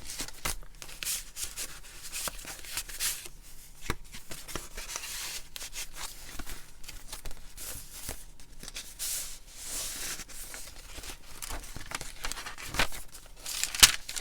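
Paper pages of a handmade junk journal being turned and handled: continual rustling and crinkling, with a couple of sharp clicks.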